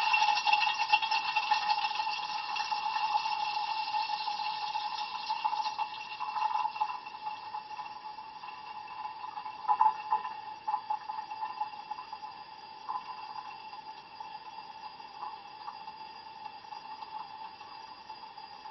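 Ariston LV 46 A IX dishwasher rinsing with cold water, heard from inside the tub: water spraying and splashing, loudest over the first few seconds, then dying down to scattered drips and splashes.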